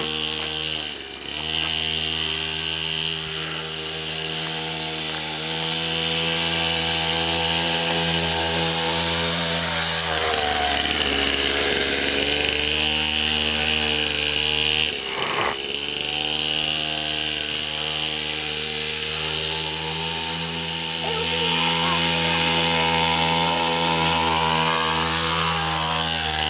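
Pit bike's small engine running steadily, its pitch briefly dropping and picking back up a few times.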